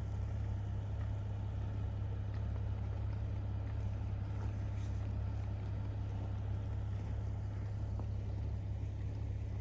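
Pickup truck's engine running with a steady low hum.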